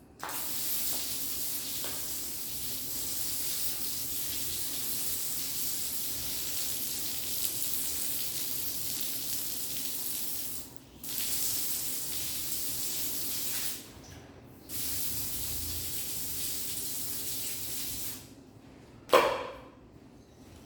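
Running water hissing in three long stretches, cut off briefly twice, followed by one sharp knock near the end.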